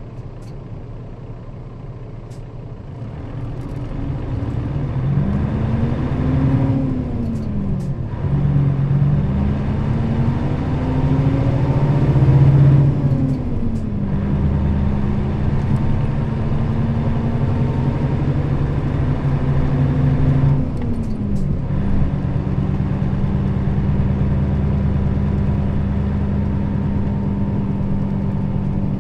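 Nissan Diesel KL-RA552RBN bus's diesel engine pulling the bus up to speed. Its note climbs and drops back at each gear change, about 8, 14 and 21 seconds in, then settles into a steady cruise.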